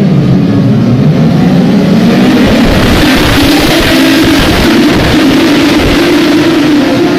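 Superbike engine running at high revs, its pitch rising and falling through gear changes and then holding steady and high from about halfway through.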